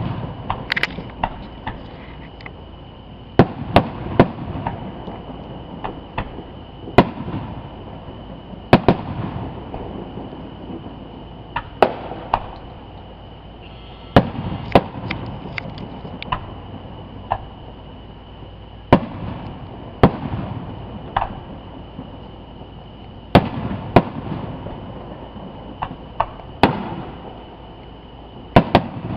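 Aerial fireworks bursting in the sky: about twenty sharp bangs at irregular intervals, some in quick clusters, each followed by a rolling echo.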